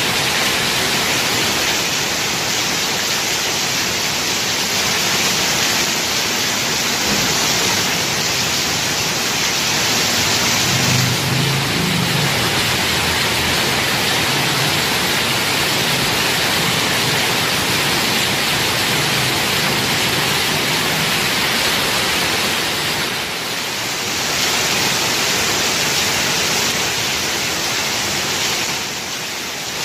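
Heavy rain pouring steadily, a dense even hiss that eases briefly twice in the second half.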